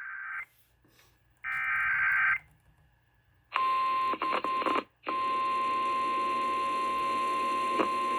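Emergency alert relayed over an FM radio station: short harsh buzzing bursts of the alert's digital header data, then the steady single-pitch weather-radio warning tone near 1 kHz. The tone breaks up a few times and cuts out briefly at about 5 s, then holds steady. It signals a severe thunderstorm warning.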